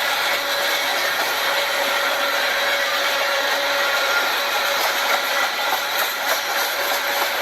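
A small motor running steadily, a constant whirring hiss with a faint whine.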